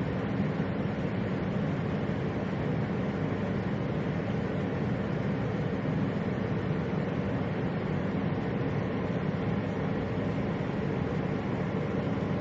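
A steady, unchanging low rumbling noise with no distinct events.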